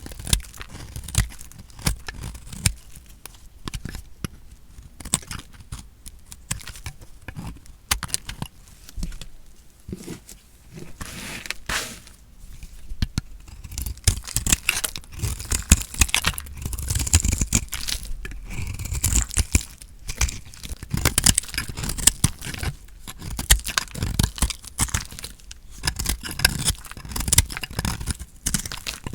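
Bar soap being cut with a knife: a dense run of crisp crunching and crackling, getting busier and louder from about halfway.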